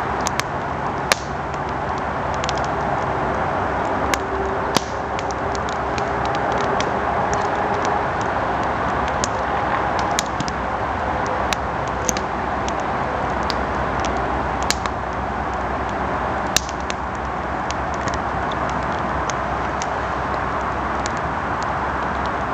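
Campfire burning: a steady rushing noise with scattered sharp crackles and pops from the wood.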